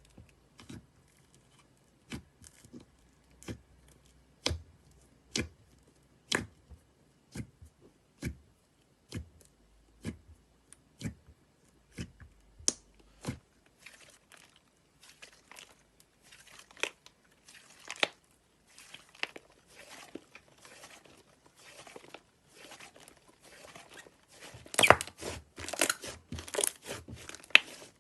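Slime being pressed and worked by hand: sharp separate pops about once a second, then a denser crackling, crunchy texture that is loudest near the end.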